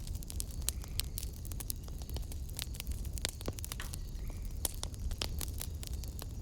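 Wood fire crackling in a fireplace. Irregular sharp pops and snaps sound over a steady low rumble of the flames.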